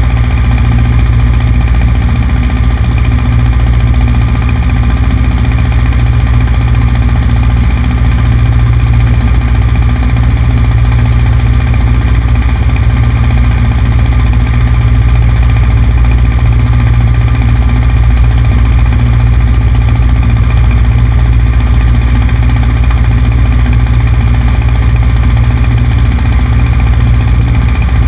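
Cessna 150's Continental O-200 four-cylinder engine and propeller running steadily as a deep drone, picked up by a camera mounted on the right wing.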